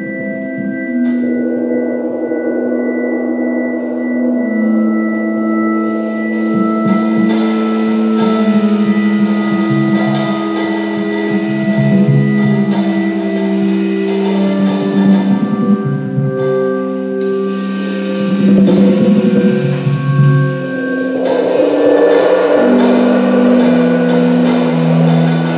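Live organ jazz trio playing: sustained organ chords with a moving line over them, and drums with cymbals coming in about six seconds in.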